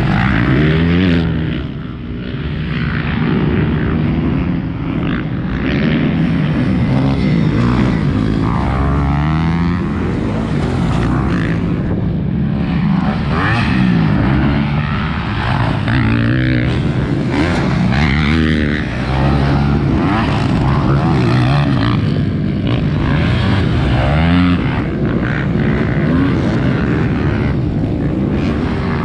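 Several 250cc motocross bike engines revving hard as the bikes race, the pitch repeatedly rising and falling as riders open and close the throttle and shift.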